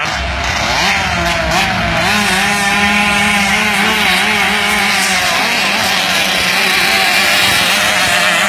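Two-stroke KR engine of a river racing boat running hard, its high, buzzing pitch wavering up and down as the revs rise and fall.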